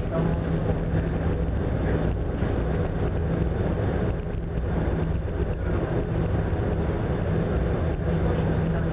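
Steady low hum of the ferry Ogasawara Maru's engines under way, with a continuous rushing noise from the rough sea.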